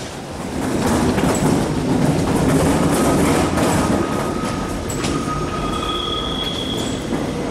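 RBS narrow-gauge commuter train running in the underground station hall: a low rumble, loudest in the first few seconds, with steady high-pitched wheel squeal from about three seconds in.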